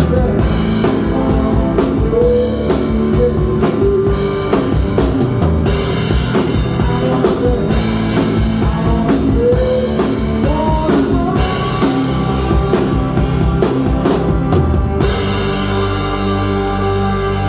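Rock band playing live: drum kit, electric lead guitar bending notes, and bass guitar. Near the end the drums stop and a held guitar chord rings on.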